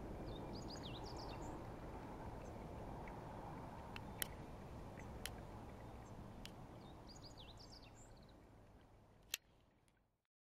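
A small bird calling in two short bursts of quick, high, curving chirps, about half a second in and again about seven seconds in, over a steady low outdoor background noise that slowly fades. A few sharp clicks cut through, the loudest near the end, and then the sound stops.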